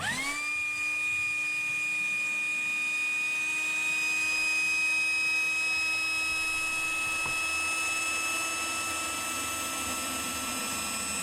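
Electric air pump switching on, its motor spinning up in a fraction of a second to a steady high whine as it inflates a large latex balloon.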